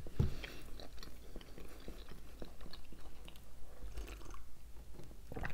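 Close-miked chewing of soft Kinder Milk Slice sponge-and-milk-filling bars, with many small wet mouth clicks; toward the end, sips of coffee with milk from glasses.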